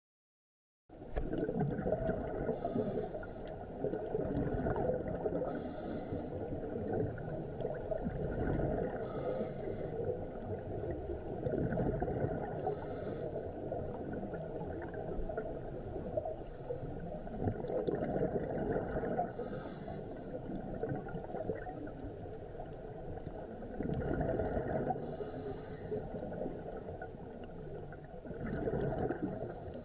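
Underwater recording of a scuba diver breathing through a regulator: a hiss about every three seconds over a steady rumble and gurgle of exhaled bubbles.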